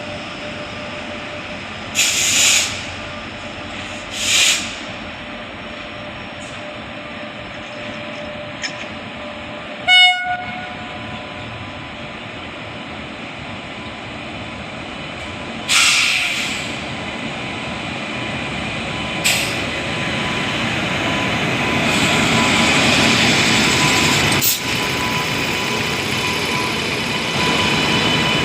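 Train locomotive running, with one short horn blast about ten seconds in and a few brief hissing bursts scattered through. The running noise grows louder in the second half, as the train comes closer.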